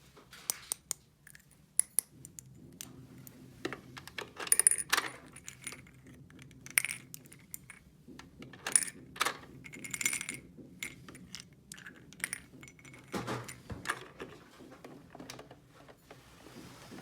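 Small hard toy pieces being handled, with irregular sharp clicks, taps and clinks.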